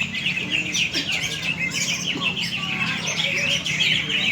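Many caged green leafbirds (cucak ijo) singing at once, a dense, unbroken chatter of rapid chirps and trills.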